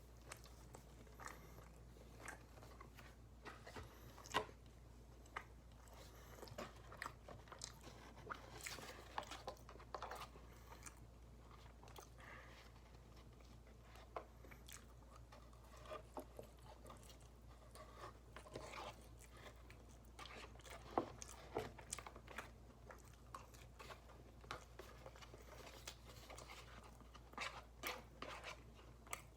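A person eating loaded fries up close: faint, irregular chewing and biting with small wet mouth clicks and crunches, over a steady low hum.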